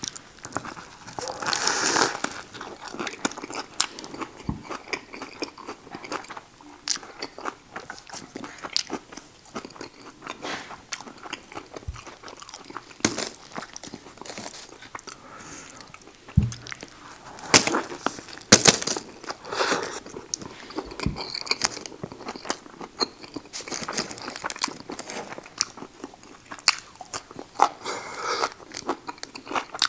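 Close-miked biting and chewing of a buffalo chicken sub loaded with lettuce, cucumber and green peppers: crisp crunches and wet chewing clicks, with several louder bites along the way.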